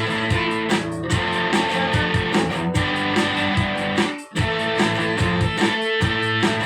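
Instrumental rock passage: strummed electric guitar over bass notes and a steady beat. The band stops briefly, for a moment, about four seconds in.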